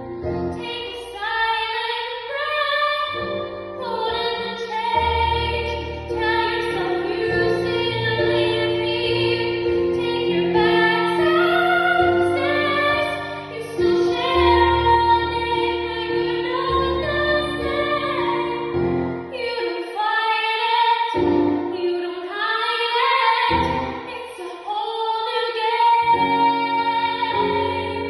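A young woman singing a musical-theatre song solo, long held notes with vibrato, over an instrumental backing.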